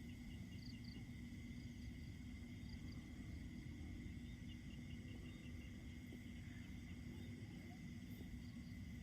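Faint outdoor ambience: insects chirping in short repeated pulses with a steady high drone, over a low steady rumble.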